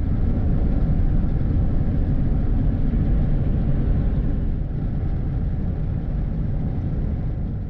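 Loud, steady rumble of a vehicle driving at highway speed, mostly low road and engine noise. It swells up just before and dies away just after.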